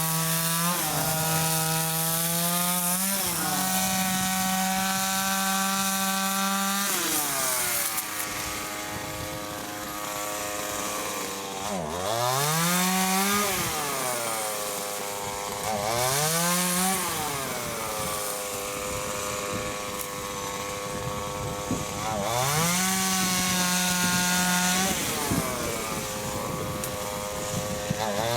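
Chainsaw running at high revs and cutting wood; its pitch holds steady, then drops and climbs back several times as the chain bites into the wood and comes free.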